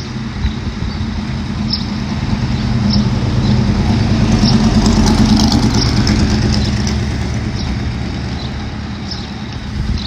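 Heavy diesel engine of demolition equipment running, its steady note swelling to a louder, harder-working peak in the middle and easing back off, with faint scattered clanks.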